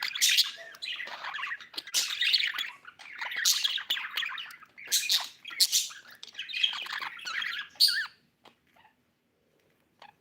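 Budgerigar chirping and chattering, with loud, sharp squawks breaking in every second or so; the calling stops about eight seconds in.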